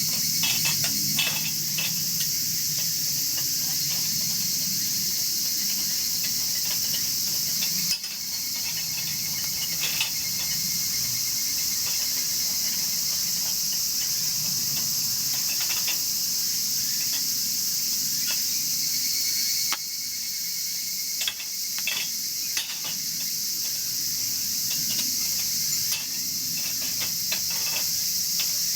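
Steady, loud high-pitched chorus of insects, with wood crackling and popping in a chiminea fire, sharp irregular snaps scattered through it over a soft low rumble of flame.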